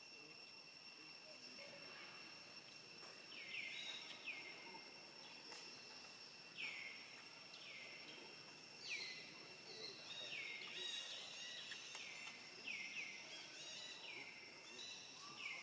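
Steady high-pitched insect drone, like crickets or cicadas. From a few seconds in, a run of short high calls that each fall in pitch, repeating about once a second.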